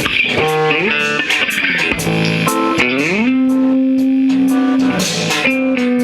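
Live rock band music with an electric guitar lead over drums. The guitar bends up into a long held note about three seconds in, then picks up again near the end.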